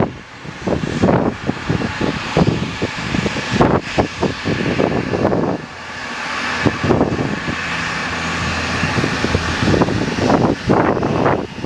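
Strong gusty wind buffeting the microphone in uneven thumps, over the steady hiss of an aircraft engine running. The engine becomes steadier and more even from about halfway through, before the gusts pick up again near the end.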